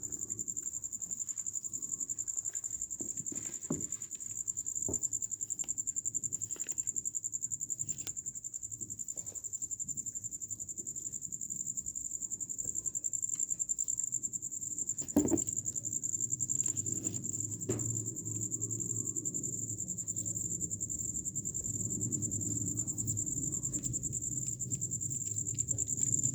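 Crickets chirring: a steady, high-pitched continuous trill, with scattered faint clicks and one sharper knock about fifteen seconds in.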